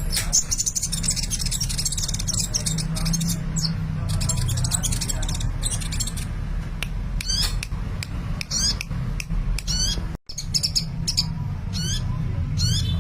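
Sunbird singing a fast, high-pitched, chattering song of rapid trills and quick upward-sweeping notes over a steady low hum. The sound cuts out for a moment about three quarters of the way through.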